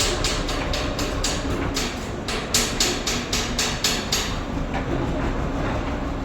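Diesel machinery running steadily, with a rapid, regular clatter of about four sharp clacks a second that stops about four seconds in.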